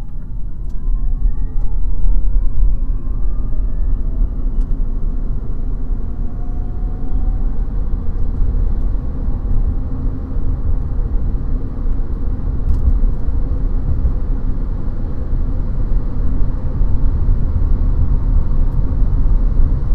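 Tesla Cybertruck driving on the road, heard from inside the cabin: steady road and wind noise over a heavy low rumble. A whine rises in pitch over the first few seconds.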